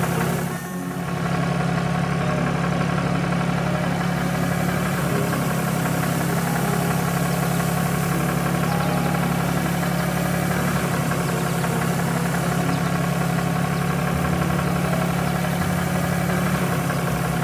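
Heavy vehicle engine idling steadily, a low even drone with a brief dip about a second in.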